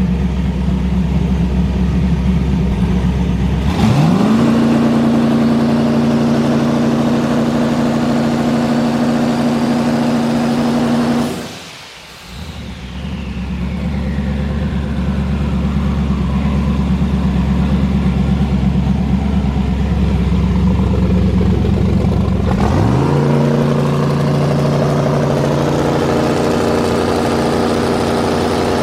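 Twin-turbo Camaro engine brought up against the brake and held at a steady limited rpm by two-step launch control, twice. About four seconds in the revs jump up and hold, then drop back about eleven seconds in as a turbo whistle winds down. Near the end the revs jump up and hold again with a rising turbo whistle: the turbos are building about 8 psi of boost on the brake.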